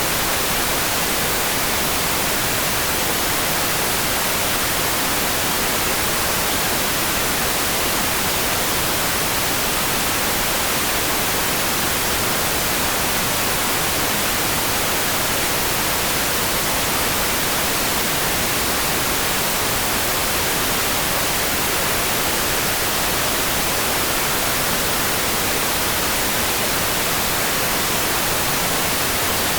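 Steady, even rain-like hiss with no separate drops or changes.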